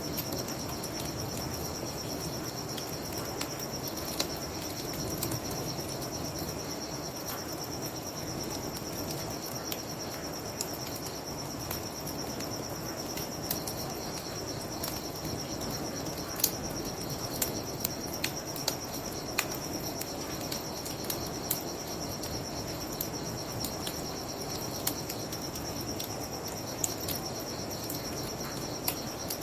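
Crickets chirping in a steady high drone over a low, even rush of water, with a wood fire crackling: scattered sharp pops, the loudest about halfway through.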